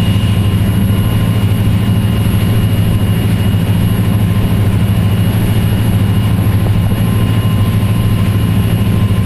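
A motor boat's engine running at a steady speed, a constant low drone with no change in pitch or level.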